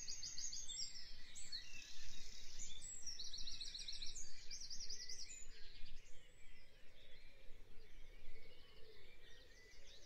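Birds chirping and trilling, busiest in the first half, over a faint steady background hiss.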